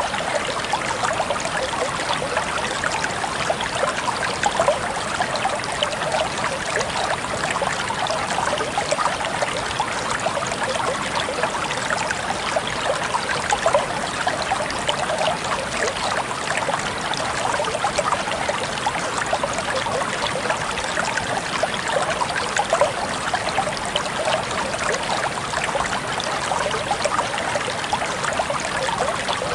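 Running water of a small stream, trickling and babbling steadily without a break.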